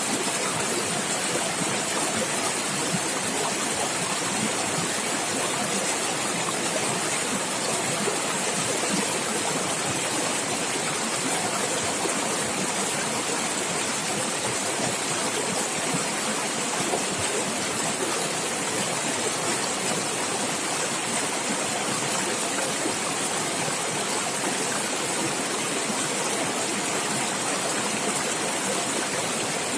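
Small stream of water running and gurgling steadily, a constant rushing splash without pauses.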